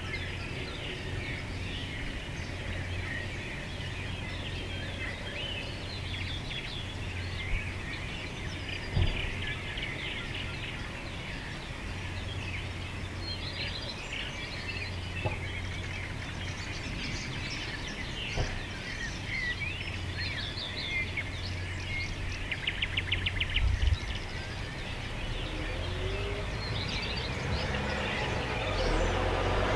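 Many small birds chirping and singing together over a low steady hum, with a few sharp clicks and, about three-quarters of the way through, a quick rattling run of pulses. Near the end a low rumble of traffic starts to build.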